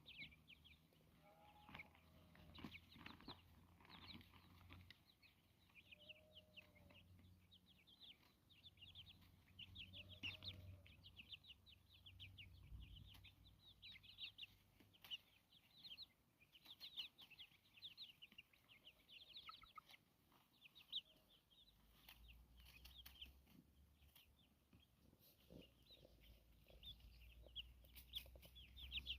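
Chickens foraging, faint soft clucks mixed with a steady run of short, high chirps throughout.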